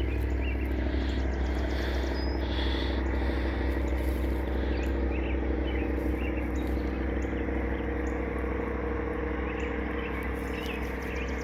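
Steady low engine rumble and hum, with faint bird chirps scattered over it.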